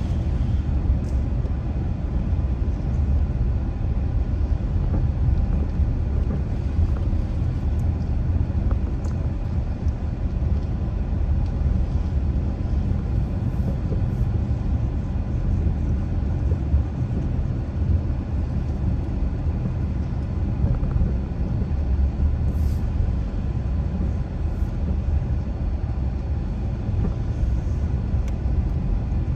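Car being driven at steady speed: a continuous low rumble of engine and tyre road noise.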